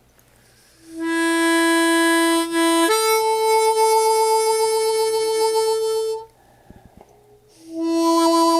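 Harmonica playing a slow tune of long held notes: a lower note, a step up to a higher note held with a wavering vibrato, a short pause, then the lower note again.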